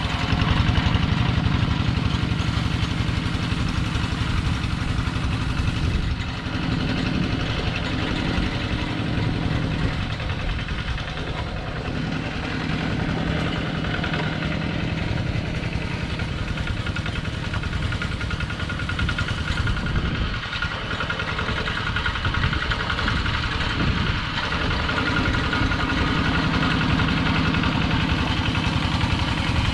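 Engine of a Kubota two-wheel tractor running steadily, with small dips in level now and then.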